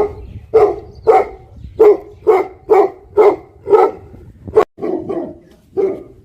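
Tibetan mastiff barking: about ten barks in a steady run, nearly two a second, with one sharp click about two thirds of the way in.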